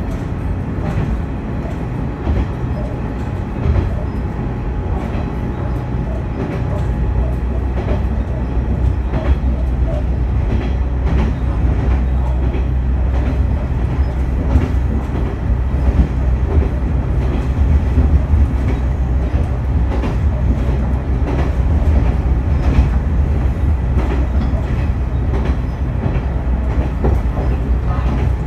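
Noto Railway diesel railcar running along the line: a steady engine drone with wheels clicking over the rail joints. The low engine note grows louder about six seconds in.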